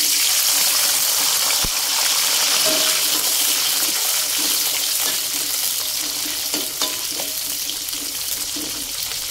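Red chilies, bird's-eye chilies, shallots and garlic sizzling in hot cooking oil in a wok: a loud steady hiss that starts abruptly as they go in and eases slightly, with a few light clicks of a metal spatula stirring them.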